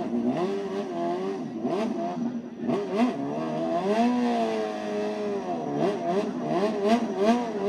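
Superbike engine being revved in repeated blips, its pitch rising and falling, with quicker short blips near the end.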